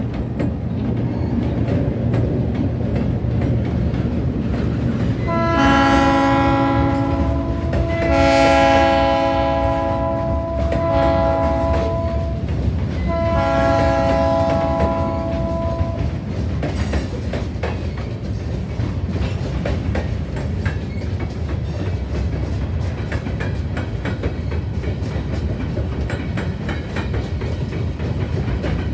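Diesel freight train's multi-chime air horn sounding the grade-crossing signal, long, long, short, long, over the steady rumble and clickety-clack of freight cars rolling past on the next track.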